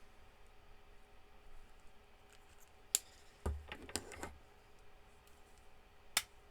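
Marker caps clicking and markers being handled on a desk: a sharp click about halfway in, a short clatter of clicks just after it, and another sharp click near the end.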